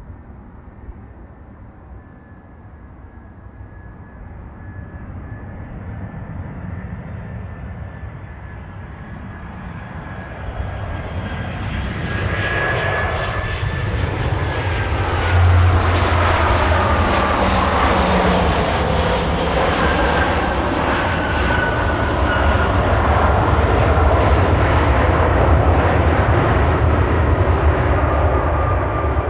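Airliner's engines growing steadily louder as it approaches, then staying loud as it passes close by, with a whine that sweeps down in pitch partway through.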